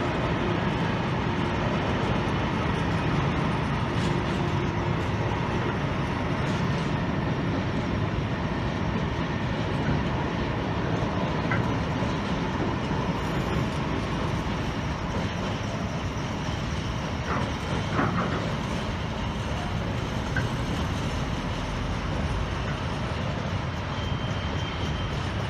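Train running past on the line: a steady rumble of wheels and running gear, with a few brief squeaks partway through.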